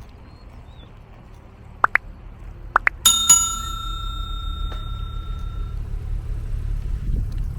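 Bicycle bell rung about three seconds in, a bright ding with a second strike just after, ringing on and fading over a couple of seconds. Two pairs of short rising chirps come just before it, over a steady low rumble of wind and traffic.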